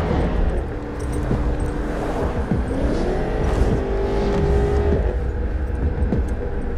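Car engine and road rumble heard from inside a moving car; the engine note rises about halfway through, holds, and falls back a couple of seconds later.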